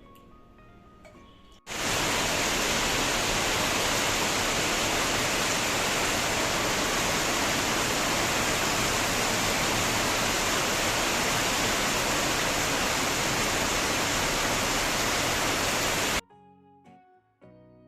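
Heavy rain pouring down: a loud, even hiss that starts abruptly a couple of seconds in and cuts off suddenly near the end. Soft background music plays before it.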